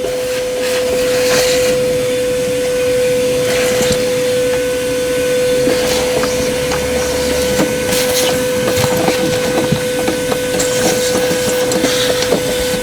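Wet-dry vacuum running steadily, a constant whine over a hiss, sucking water out of a flooded car's floor, with scattered knocks from the nozzle.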